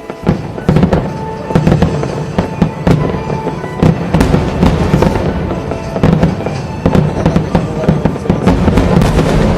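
Fireworks display: aerial shells bursting in rapid, irregular succession with crackling between the bangs, over music.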